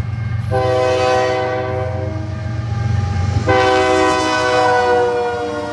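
Diesel locomotive horn sounding two blasts of a multi-note chord over the rumble of the passing train: a blast of about a second and a half, then, after a short gap, a longer one that is still sounding at the end.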